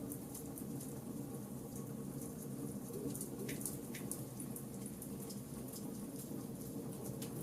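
Burning charcoal in a campfire crackling steadily, with many small ticks and a couple of slightly louder pops about three and a half and four seconds in.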